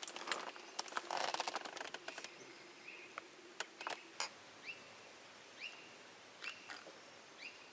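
A bird calling in short, rising chirps, repeated roughly once a second, among scattered sharp clicks. A louder burst of rustling and crackling clicks ends about two seconds in.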